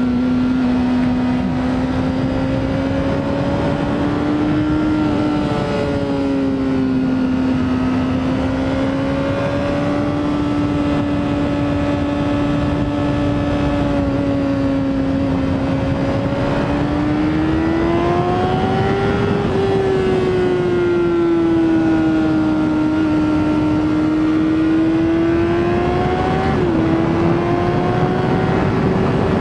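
Honda CBR600RR sport bike's inline-four engine running at high revs while riding, its note rising and falling with the throttle through the turns, with a brief dip and recovery near the end. Wind noise runs underneath.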